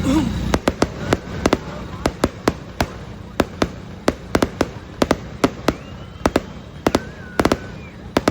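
Aerial fireworks going off in a rapid, irregular string of sharp bangs and cracks, about three or four a second, with a faint whistle gliding partway through.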